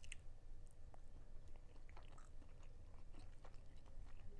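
Faint chewing of a chicken drumstick coated in sweet, sticky gold sugar dust, with small mouth clicks scattered throughout.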